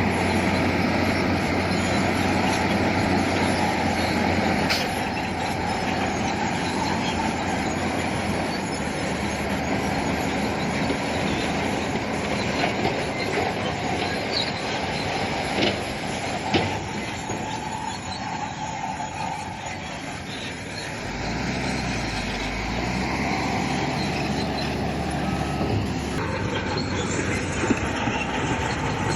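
Crawler bulldozer working over stone: its diesel engine runs steadily, with three sharp knocks near the middle. The engine note shifts about two-thirds of the way through.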